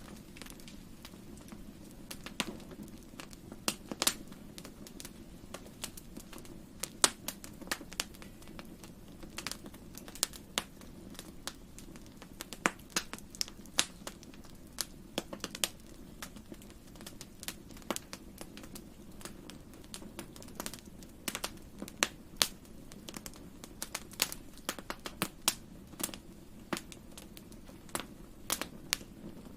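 Fireplace fire crackling: irregular sharp pops and snaps, uneven in spacing and loudness, over a soft steady low rumble.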